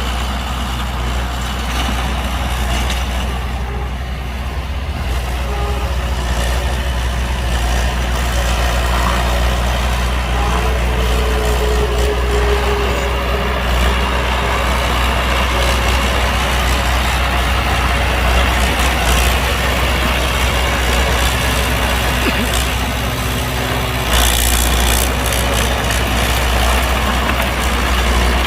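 Heavy diesel engine of earthmoving machinery running steadily with a low drone. About 24 seconds in, a brief hiss cuts in over it.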